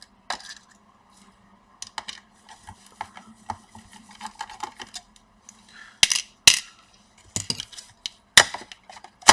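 Small hard clicks and light metallic clinks of laptop screws and a hard drive being handled during disassembly, with a few sharper clicks in the second half.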